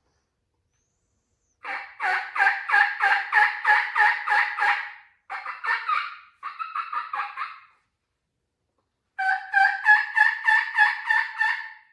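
Mouth diaphragm turkey call played in runs of evenly spaced hen-turkey yelps, about four a second. A long run of about a dozen notes, a short run, and a quicker, softer run follow each other, then after a pause a final run of about ten yelps.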